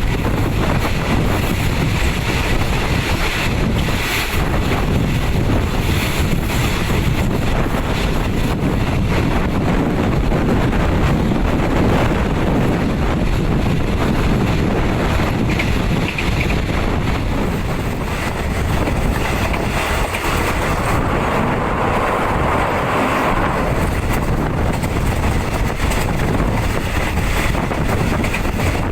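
Steady rumble of a moving train with wind rushing in through the open windows of a third-class carriage, buffeting the microphone.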